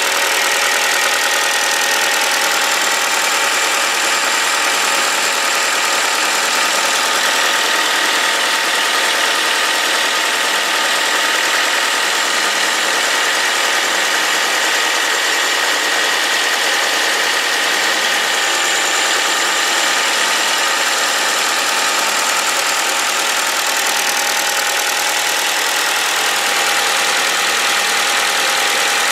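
Ford Focus 3 1.6 Duratec Sigma four-cylinder petrol engine idling steadily, with a fast chatter of fuel injectors and a light diesel-like tapping that the owner is unsure is normal for this engine.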